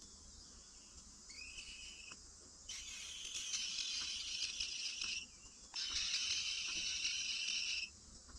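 Insect buzzing in steady phrases of about two seconds each, starting and stopping sharply, over a constant high insect hiss.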